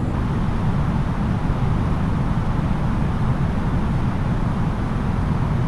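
Steady low cabin rumble of an Airbus A330-900neo on approach: engine and airflow noise heard from inside the cabin, even and unchanging.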